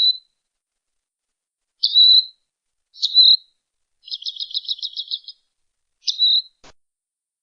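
A robin calling: short, high single notes, each a quick downward sweep, repeated every second or two, with a rapid chattering trill of about a dozen notes in the middle. A faint click follows near the end.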